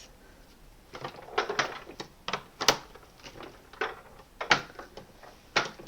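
Irregular plastic clicks and knocks as a vacuum cleaner's plastic accessory tool is fitted onto its storage holder on the machine's body, with the vacuum switched off.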